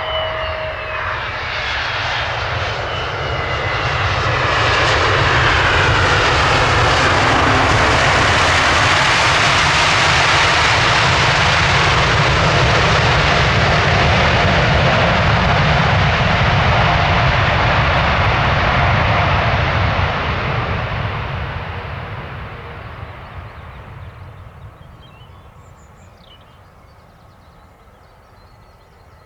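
Airbus A321neo jet engines on final approach to land, passing close overhead. Over the first few seconds a whine falls in pitch as the rushing engine noise swells. The noise stays loud and steady for about fifteen seconds, then fades away as the airliner moves off toward the runway.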